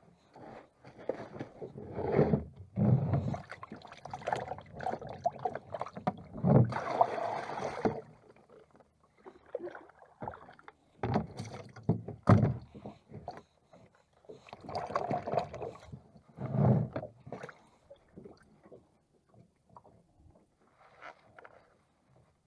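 Irregular knocks, bumps and scraping aboard a small boat, coming in clusters of a second or two.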